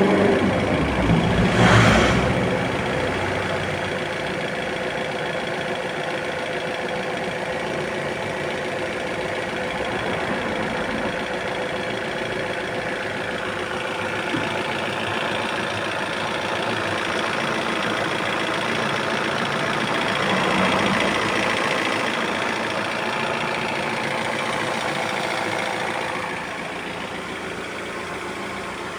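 GM Ecotec car engine running steadily, with a constant drone under the engine noise and a steady tone. The drone is the noise the video blames on the engine's water pump. A brief louder swell comes about two seconds in, and the level drops a little near the end.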